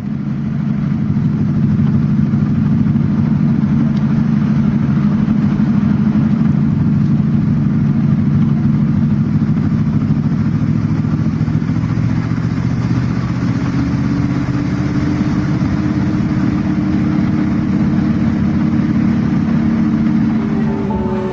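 Boat engines running steadily: a continuous low hum, with a slightly higher tone joining about halfway through.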